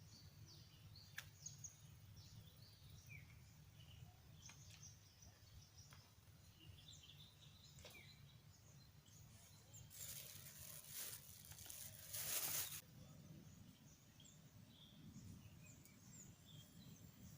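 Faint birdsong: many short, scattered chirps over a low steady hum. About ten seconds in, a noisy rush lasts roughly three seconds and is loudest just before it stops.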